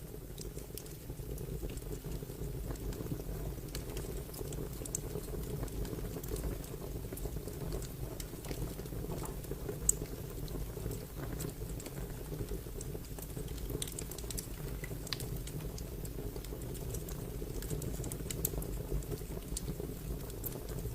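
Fire crackling: a steady low rumble under scattered small snaps and crackles, with one sharper pop about halfway through.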